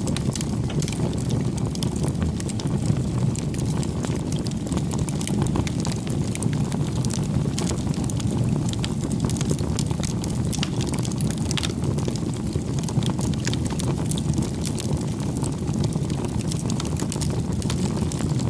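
Wood fire burning: a steady low rush of flames with frequent small, irregular crackles and pops.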